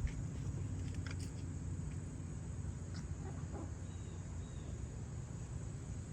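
Steady low outdoor hum with a few faint clicks and, about three seconds in, some faint short chirps; no leaf blower is running yet.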